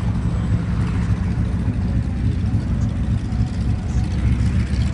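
Aircraft engine droning as a steady, loud low rumble.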